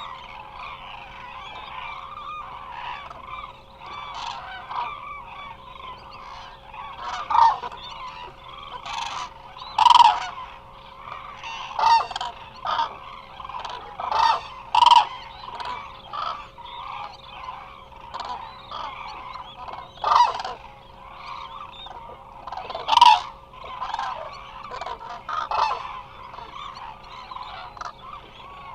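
A large flock of Eurasian cranes calling: a continuous chorus of overlapping calls, with louder, nearer calls standing out every few seconds.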